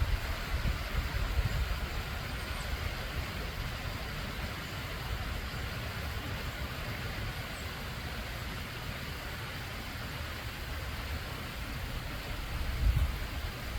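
Stream and small waterfall water rushing and bubbling in a steady hiss, over a low rumble that swells near the end.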